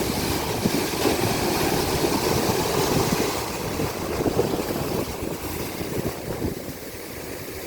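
Ocean surf breaking and washing up the beach, a steady rushing hiss that eases off about halfway through, with wind rumbling on the microphone.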